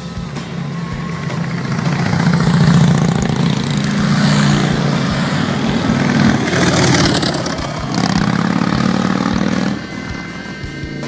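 Motorcycle engines running, growing louder over the first few seconds and dropping off near the end, with music underneath.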